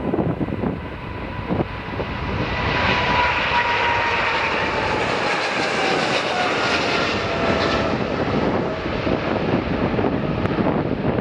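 Jet airliner passing close by, its engine rush swelling about two seconds in, with whining tones that slide down in pitch as it goes past, then easing off. Wind buffets the microphone.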